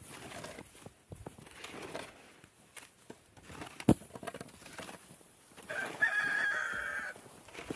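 A rooster crows once, a single call of about a second and a half near the end. Scattered small knocks and rustles run underneath, with one sharp knock about four seconds in.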